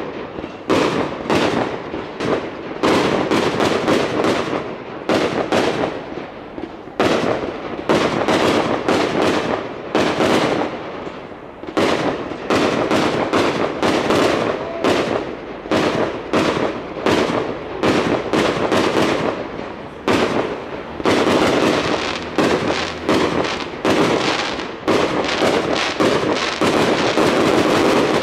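Aerial firework shells bursting in a dense, continuous barrage, several loud bangs a second with echo trailing each, until the bangs stop near the end.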